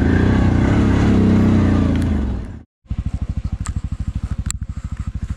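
CFMoto 1000 ATV's V-twin engine running on the throttle, its pitch wandering. About two and a half seconds in, the sound cuts off abruptly. It comes back as the engine idling with a steady, even low pulse.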